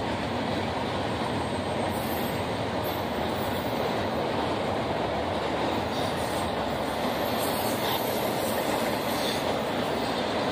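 Double-stack container freight train rolling across a steel girder bridge: a steady rumble of wheels and cars, with faint high wheel squeals now and then.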